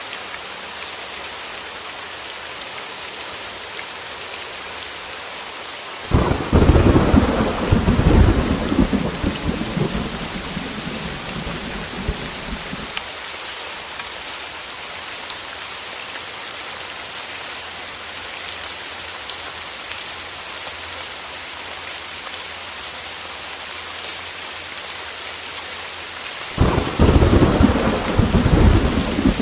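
Heavy rain falling steadily, with a fine crackle of drops. Thunder rumbles twice: a loud peal about six seconds in that dies away over several seconds, and another near the end.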